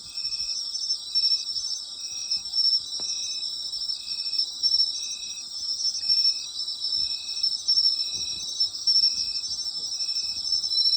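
Night chorus of autumn insects: one insect calls in short, evenly spaced chirps about once every three-quarters of a second over a dense, continuous trilling of many crickets at a higher pitch.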